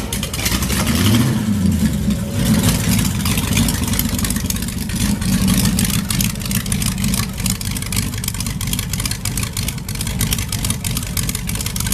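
A car engine running loudly close by, revving up about a second in and then running on with rapid exhaust pulses.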